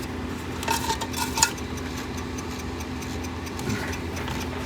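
A few light clinks and scrapes, about a second in, as the repaired water heater power vent fan is turned by hand after its glue has cured. A steady low hum sounds throughout.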